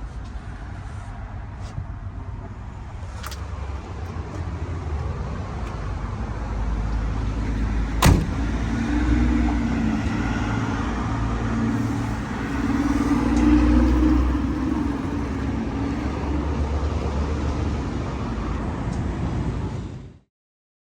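A motor vehicle's engine running with a low rumble that swells and eases, with a sharp knock about eight seconds in. The sound cuts off abruptly near the end.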